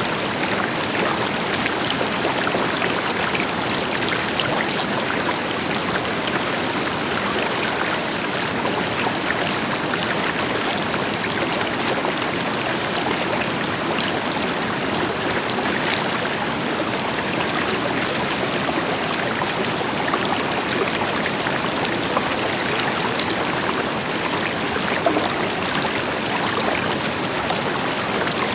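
River water flowing steadily over rocks, with a waterfall's deeper rush behind it and many small splashes and trickles.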